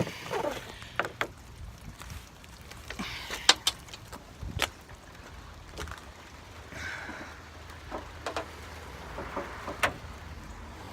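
Scattered sharp knocks and clicks with rustling, from a person moving about and handling the recording phone, over a steady hiss of rain.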